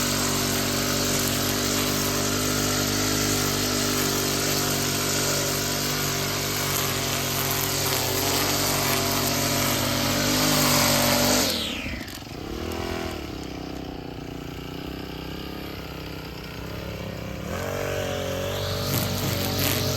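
Small petrol engine of a garden power tool running at high revs, dropping sharply to a low idle about halfway through, then revving back up near the end.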